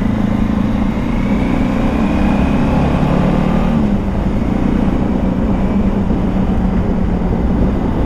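Motorcycle engine running under way at road speed, heard from the rider's camera; the engine note drops about four seconds in, then holds steady, over a low rumble of wind noise.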